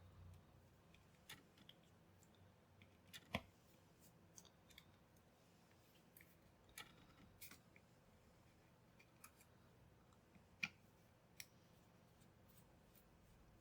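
Faint handling sounds from working on a small Bluetooth speaker: scattered light clicks and taps, with two sharper clicks, one about three seconds in and one near eleven seconds, over a low hum.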